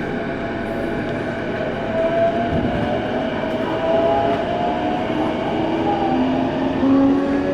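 Keiyo Line rapid train running, heard from inside the carriage: a steady rumble of wheels on the rails with the motors' whine, several tones that slowly shift in pitch.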